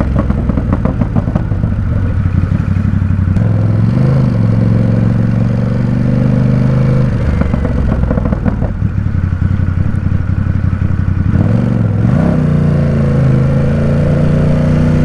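Ducati Supersport 950 S's 937 cc L-twin engine running while the bike is ridden at low city speed. The engine note drops and picks up again several times, as with throttle changes and gear shifts.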